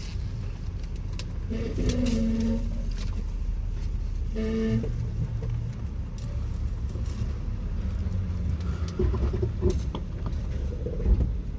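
Jeep Wrangler engine running at low revs as it crawls over rocks, a steady low rumble with scattered knocks and clicks.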